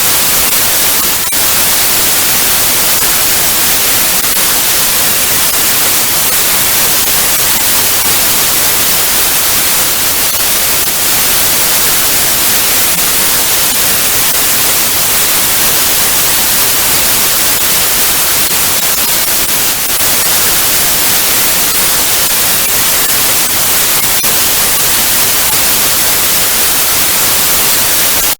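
Loud, steady TV static: an even hiss, brightest in the high end, with a few faint crackles.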